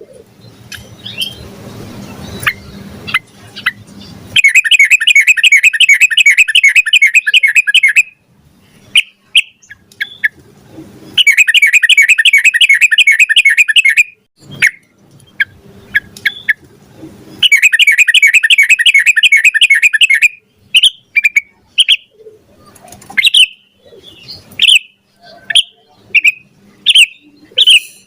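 Sooty-headed bulbul (trucukan) singing: three long bouts of fast repeated notes, each a few seconds long, with short single calls between them and many more near the end.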